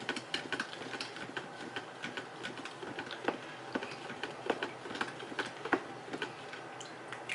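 A metal spoon stirring a drink in a container, clinking repeatedly and irregularly against its sides, several light ticks a second.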